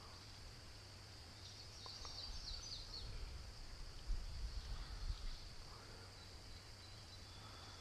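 Insects droning steadily in a high, even pitch, with a few short bird chirps about two seconds in, over a low rumble.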